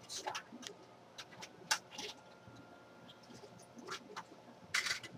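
A shader brush patting and packing powder eyeshadow: scattered light clicks and taps, with two brief brushy swishes, one about two seconds in and one near the end.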